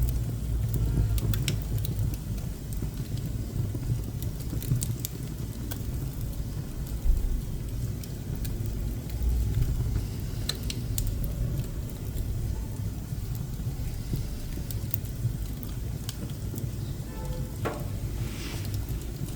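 Pine and scrap-wood offcuts burning in a wood stove: a steady low rumble of the fire with scattered sharp crackles and pops, and a brief hiss near the end.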